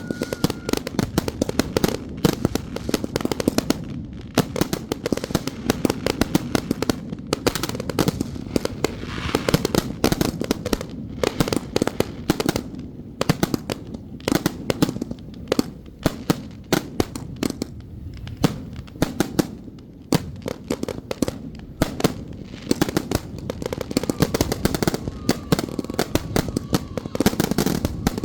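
Firecrackers going off in rapid, continuous strings of sharp bangs, like machine-gun fire, with no let-up.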